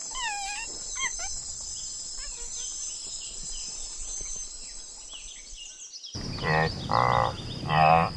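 A few short whooping monkey calls over a steady high drone of jungle insects. About six seconds in, the recording cuts to a larger animal giving repeated low, lowing calls, three or four of them, each about half a second long.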